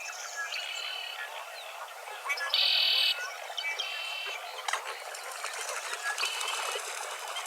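Wetland dawn chorus of croaking frogs and calling birds. Several trilled calls stand out; the loudest, about two and a half seconds in, lasts nearly a second, with shorter trills before and after it.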